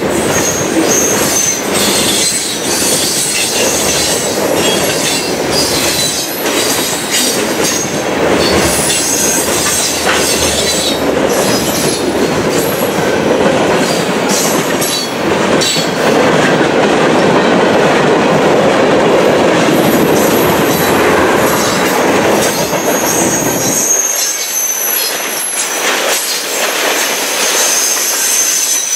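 Norfolk Southern manifest freight train's cars rolling past at speed: a steady rumble and clatter of steel wheels on rail, with faint high-pitched wheel squeal. The low rumble thins out near the end.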